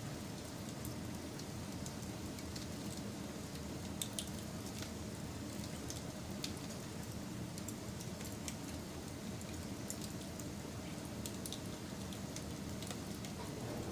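Wood fire burning: scattered sharp crackles and pops over a steady low rumble, with one louder pop about four seconds in.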